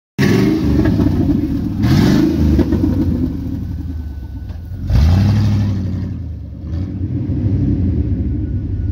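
Chevy 350 Vortec 5.7-litre V8 with the muffler deleted, its open exhaust revving up in pitch with loud surges of throttle about two and five seconds in, then settling into a steadier drone. It echoes in a tunnel.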